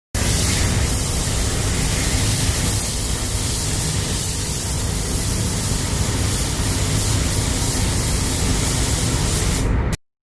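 Pneumatic paint spray gun spraying in one long, steady hiss over a low rumble, starting and stopping abruptly.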